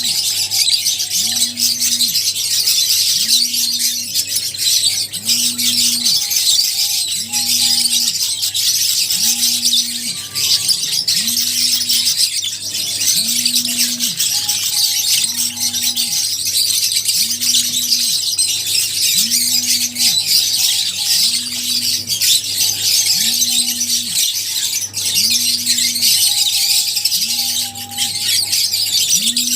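A flock of lovebirds chattering nonstop in dense, high-pitched chirps. Beneath it run a steady low hum and a short low tone that repeats about once a second.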